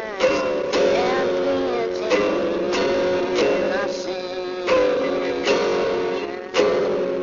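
Music led by a strummed guitar: chords struck every half-second to a second, with sustained notes ringing between strokes.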